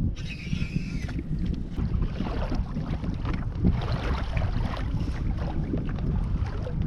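Wind buffeting the microphone on a kayak out on open water, with water splashing and lapping around the boat.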